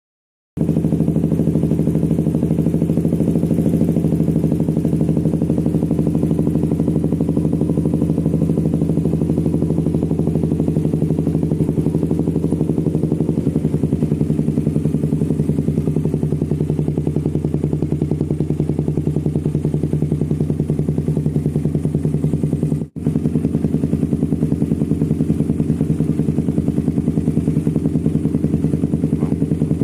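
Suzuki Satria FU motorcycle's single-cylinder engine idling steadily through a Lone Rider aftermarket racing exhaust, with a brief break in the sound about three-quarters of the way through.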